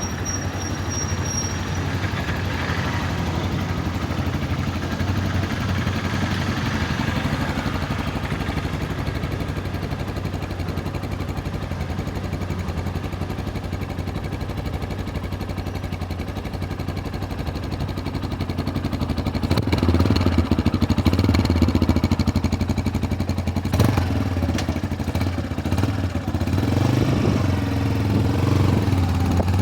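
Tekken 250cc motorcycle engine running steadily, getting louder for a few seconds about two-thirds of the way through, with a single sharp click shortly after.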